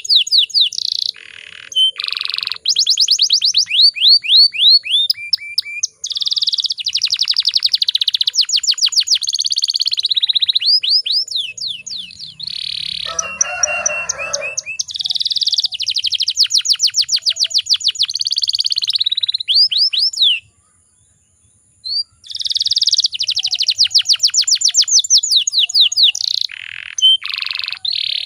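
Domestic canary singing long runs of fast trills and rolls, with short breaks between phrases and a brief lower, rougher stretch about halfway through.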